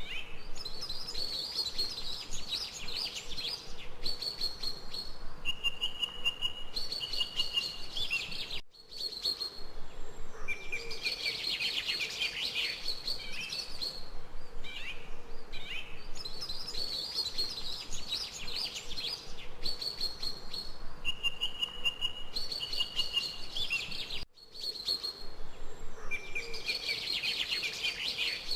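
Birds singing, several whistled and trilling calls overlapping over a faint steady hiss. The same stretch of birdsong comes round again after about fifteen seconds, each time just after a brief dip in the sound.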